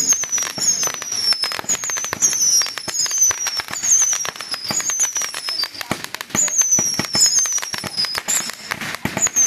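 Fireworks going off: a rapid, continuous run of bangs and crackles. Over it runs a high, falling whistle that repeats about every half second.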